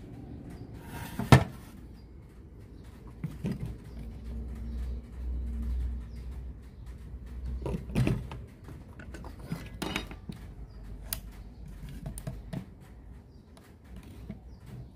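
Scattered knocks and clicks over a low steady hum, the loudest knock about a second in.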